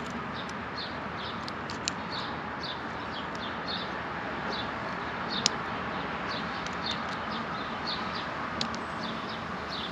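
A small bird chirping over and over, short high chirps about twice a second, over a steady background hiss, with a couple of light clicks.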